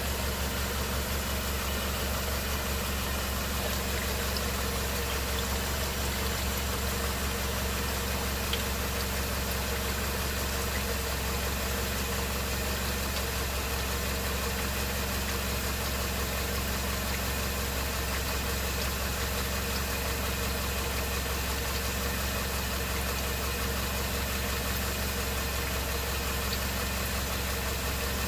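2015 Subaru Forester's 2.5-litre flat-four engine idling steadily, heard from underneath the car, running with the CVT at operating temperature so the excess transmission fluid drains to the correct level.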